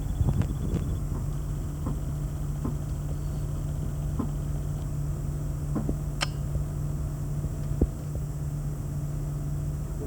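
2006 Range Rover Sport Supercharged's supercharged 4.2-litre V8 idling steadily in the minutes after a cold start, with a few faint clicks scattered through.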